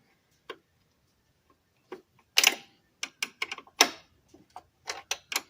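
Scattered sharp metal clicks and clinks of hand tools working on an engine's throttle linkage, about a dozen irregular ticks with short gaps between them.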